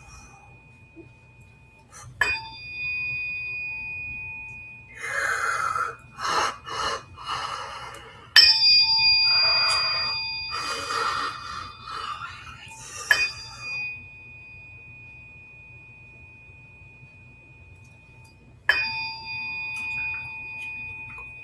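Biofield tuning forks struck four times, each a sharp ping followed by a long, pure, high ringing tone that slowly fades. Several bursts of breathy whooshing noise come between the strikes.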